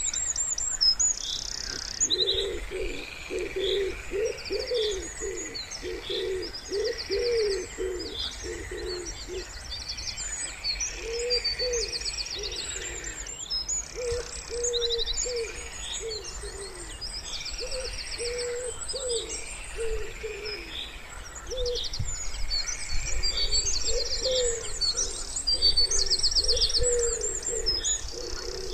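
Wood pigeons cooing in phrases of repeated low notes, dense in the first ten seconds and again near the end, over continuous high chirping and trilled songbird song.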